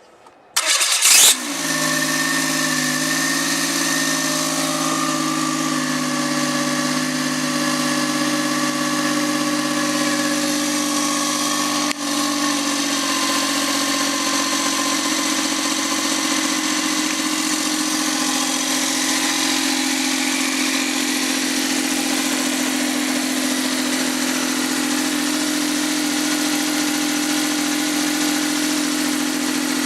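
Rebuilt Suzuki K6A three-cylinder turbo engine starting about half a second in, catching at once with a brief flare, then settling into a steady idle. It is being test-run after overhaul.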